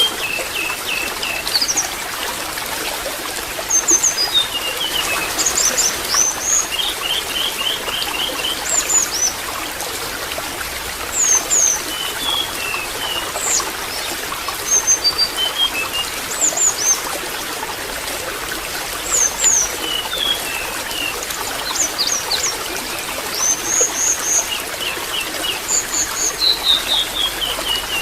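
Water trickling steadily, with small birds chirping over it: short high falling whistles and quick runs of repeated notes every few seconds.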